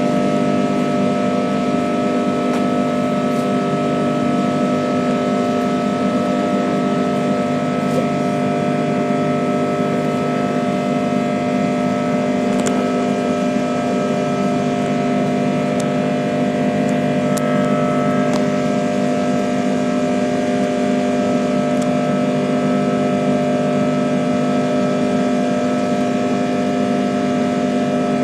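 Airbus A330-300 jet engines heard inside the passenger cabin: a steady drone with several fixed humming and whining tones, holding level without rising or falling.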